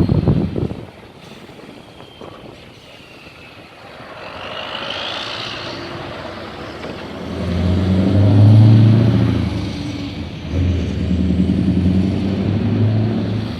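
Scania V8 diesel truck engine running, a deep pitched drone that builds from about seven seconds in and is loudest around eight to nine seconds, dips briefly, then pulls strongly again near the end.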